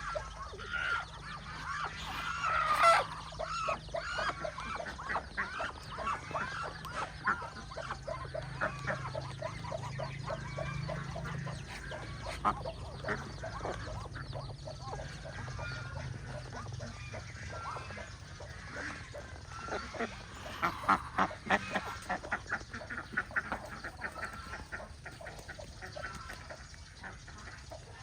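A flock of domestic ducks quacking: many short calls in quick runs, loudest about three seconds in and again around twenty seconds in.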